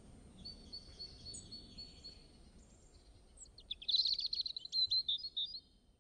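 Birds singing over a faint low outdoor background rumble: a thin, high trill of quickly repeated notes in the first two seconds, then a louder, busier run of high chirps about four seconds in that stops shortly before the end.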